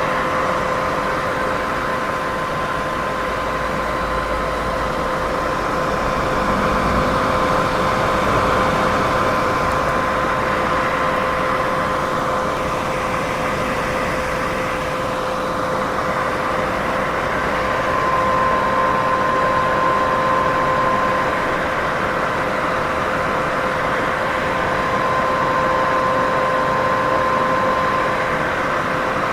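Continuous white-noise hiss of a sleep-masking track, with a steady hum at two pitches running through it and slow, gentle swells in loudness every several seconds.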